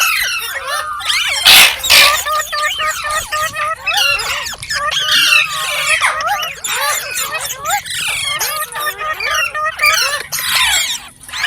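Green parrot chattering without pause in rapid chirps and squawks, with a loud, harsh screech about one and a half seconds in.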